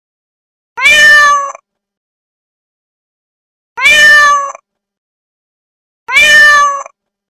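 Domestic cat meowing three times, the same loud meow of just under a second repeated with gaps of about two to three seconds.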